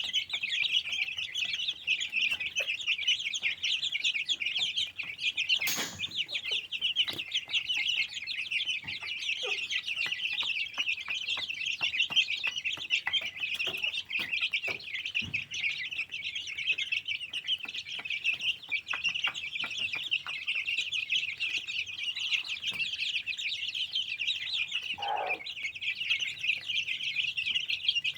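A brood of Aseel fighter chicks peeping continuously in a dense, high-pitched chorus. Scattered clicks run through it, with one louder knock about six seconds in and a brief lower call near the end.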